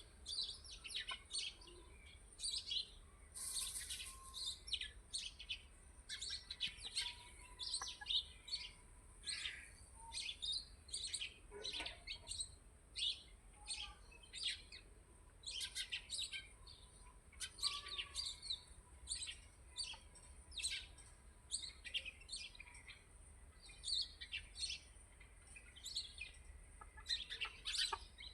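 Songbirds chirping and calling in a continuous dense chorus of short chirps, with a steady high-pitched hiss underneath.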